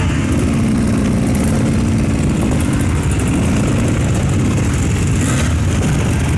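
Several enduro motorcycle engines running together in a loud, steady drone, with a short burst of revving about five seconds in.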